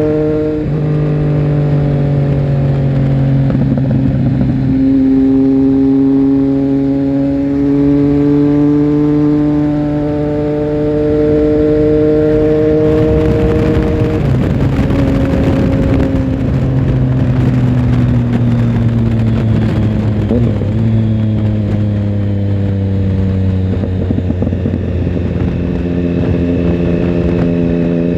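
Triumph Tiger Sport 1050's three-cylinder engine heard from onboard while riding: its pitch climbs through the gears with short drops at upshifts in the first few seconds, then falls steadily as the bike slows, rising again near the end. Wind rushes over the microphone throughout, loudest about halfway through.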